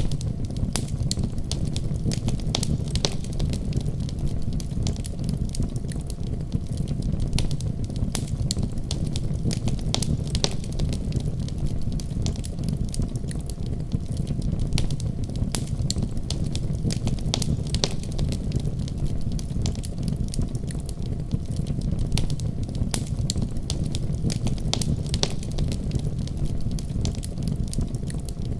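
Wood fire crackling, with irregular sharp pops and snaps over a steady low rumble of flame.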